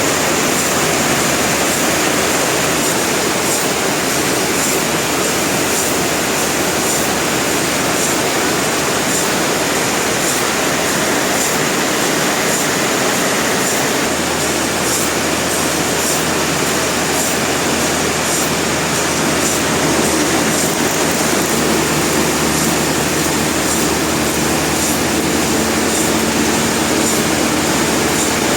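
Industrial sawmill machinery running at full production: a loud, steady, dense mechanical din.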